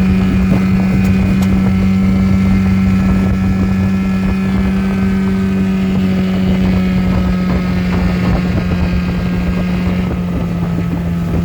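7.5 hp Mercury outboard motor running steadily under way, pushing a small aluminum boat, with a steady engine note that dips slightly near the end. Wind buffets the microphone.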